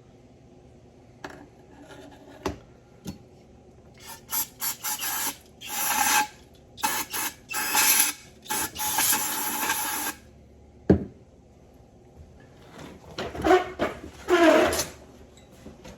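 Hand work on a disassembled steering box: a few light clicks, then a run of short hissing bursts over several seconds. A single sharp knock follows, then rough scraping near the end.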